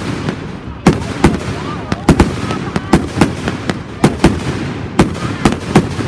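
Fireworks display with shells bursting in quick succession, several sharp bangs a second, over a constant rumble, with voices in the background.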